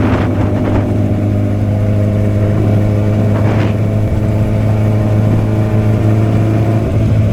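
Motorcycle engine running at a steady pitch while riding, holding an even speed without revving. There are short hissy rushes near the start and about three and a half seconds in.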